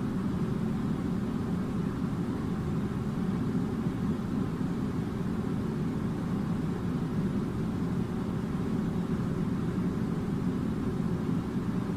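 Air conditioner running: a steady low whooshing drone of blown air and motor, unchanging throughout.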